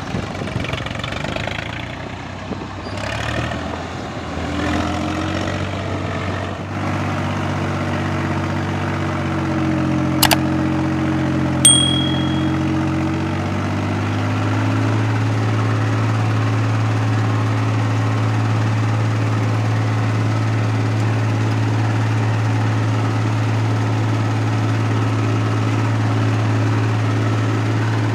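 Swaraj tractor diesel engine running, its speed rising and falling over the first half, then holding a steady note from about halfway. Near the middle there is a sharp click and then a short metallic ding.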